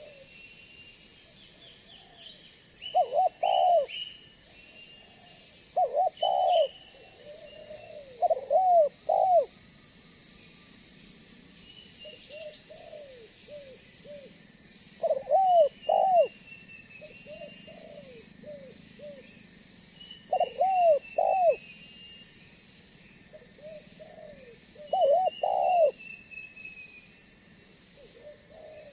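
Spotted dove (tekukur) cooing in repeated phrases of two or three loud curved coos, a phrase every few seconds, with softer coos in between. Faint higher chirps of small birds and a steady high hiss lie underneath.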